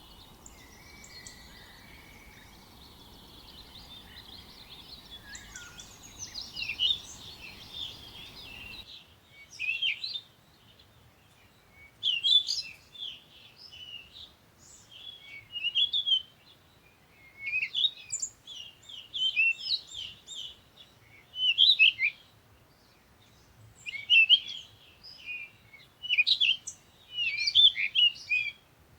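Small songbirds chirping. A dense chorus of overlapping calls over a background hiss gives way abruptly, about nine seconds in, to short bursts of high chirping repeated every second or two against a quiet background.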